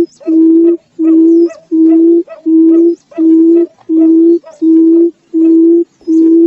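Barred buttonquail giving its low booming call: an even series of hollow hoots, each about half a second long, about three every two seconds.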